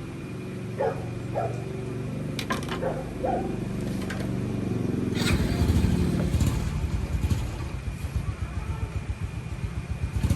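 A small engine running, turning into a rougher, fast pulsing about five seconds in. A few short barks and clicks come in the first few seconds.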